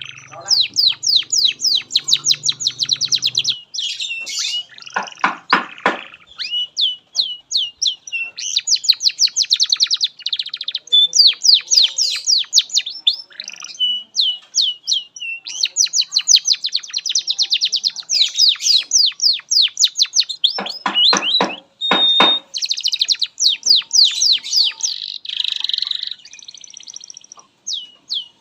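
Domestic canary singing a long continuous song of rapid trills, fast runs of high sweeping notes with short deeper rolling trills about five seconds in and again after twenty seconds.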